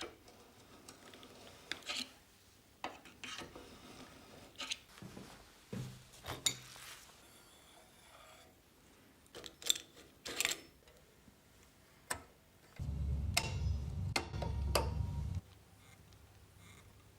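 Metal parts being handled in a workshop: scattered clicks, knocks and scrapes, with a louder low rumble lasting about two and a half seconds near the end.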